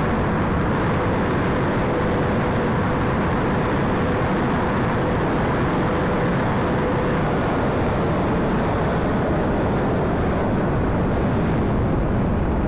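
Steady wind rush with the Honda CBR600RR's inline-four engine running at an even cruising speed, a faint steady engine note under the noise.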